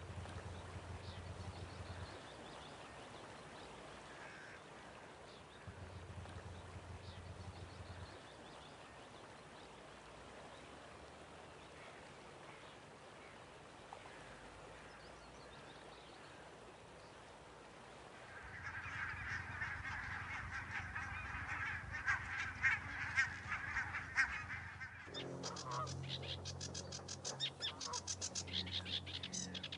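Wild birds calling: faint at first, then a dense, louder mass of calls in the second half, giving way near the end to rapid repeated short notes.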